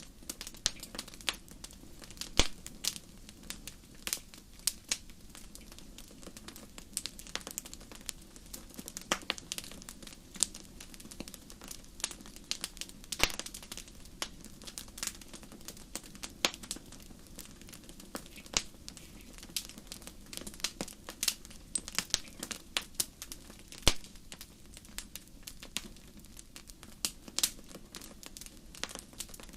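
Wood fire crackling: a steady stream of irregular sharp pops and snaps, some much louder than others, over a steady low rumble.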